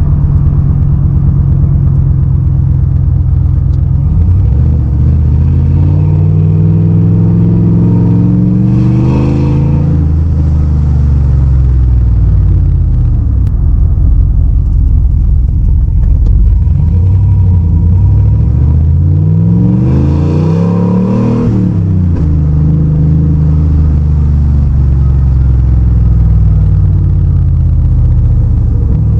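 1997 Dodge Dakota's 318 (5.2-litre) V8 idling through a homemade 3-inch dual exhaust with a catalytic converter and a straight-through glasspack, revved up and back down twice. This is the setup the owner found still sounded bad.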